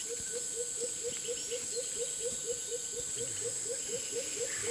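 Tropical forest insects drone steadily at a high pitch. Over them, a low note repeats rapidly, about five times a second.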